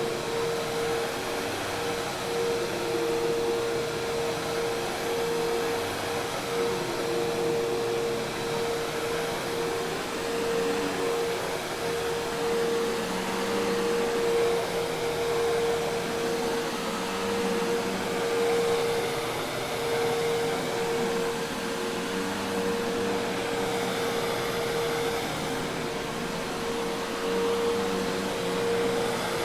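Hoover Task Vac commercial vacuum cleaner running steadily, a constant motor tone over the rush of air.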